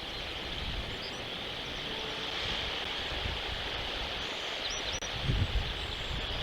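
Outdoor ambience: a steady hiss, with wind rumbling on the microphone about five seconds in. Two faint, short bird chirps come just before the gust.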